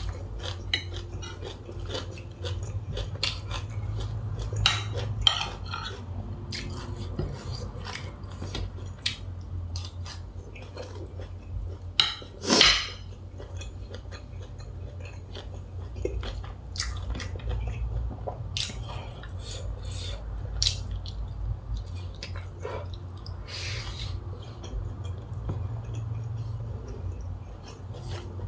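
A person eating grilled-beef nam tok salad: scattered clinks of a spoon on a dish among chewing sounds, with one louder clatter about halfway through, over a steady low hum.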